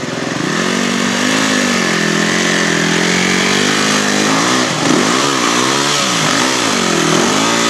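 Dirt bike engine running, fairly steady at first, then revving up and down several times in the second half as the rider works the throttle.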